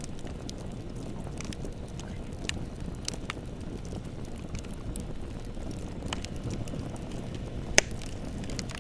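Bonfire burning with a steady low rumble and scattered crackles and pops from the burning wood, one sharp pop the loudest near the end.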